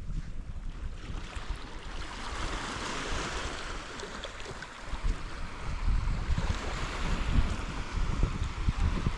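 Sea surf washing on the shore, one wave swelling and falling away, with wind gusting on the microphone more strongly in the second half.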